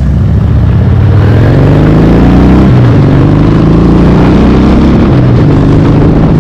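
Custom motorcycle engine pulling hard on the road, its pitch climbing and then dropping back twice, about three and five seconds in.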